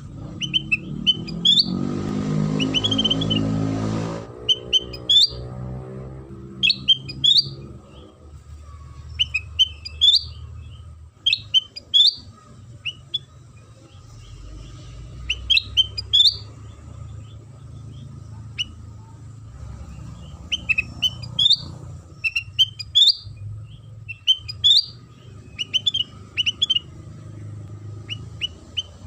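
Kutilang sutra bulbul singing: short, sharp, rising chirp phrases repeated every second or two over a steady low hum. A loud low rumble with a buzz swells in near the start and cuts off about four seconds in.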